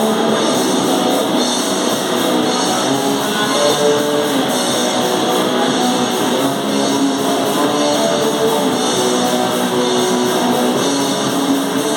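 A live hardcore noise-metal band playing loud, with distorted electric guitar and drums. The recording is thin, with little low end.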